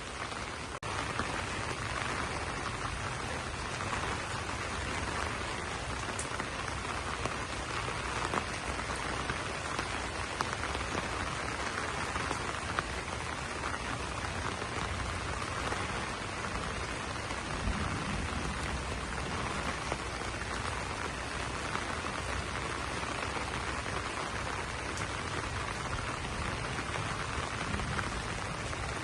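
Steady rain falling on banana leaves.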